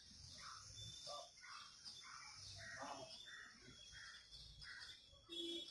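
Faint bird calls: short calls repeated about twice a second. A brief, louder sound comes just before the end.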